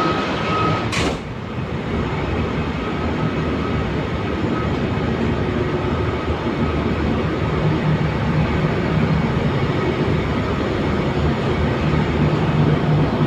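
Large ship's engine-room machinery running: a loud, steady drone with a low hum. About a second in there is a single sharp knock, and a high steady whine stops at the same moment.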